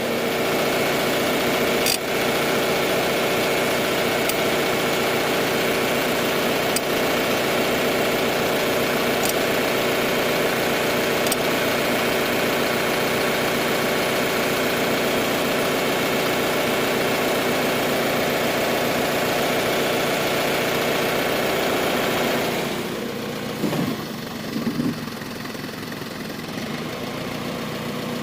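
An engine idling steadily. About three-quarters of the way through, the sound drops to a quieter level, and a few short knocks follow.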